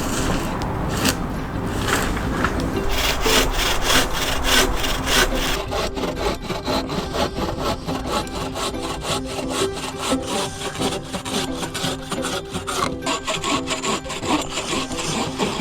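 Hand saw cutting through wood in a quick, steady run of back-and-forth strokes.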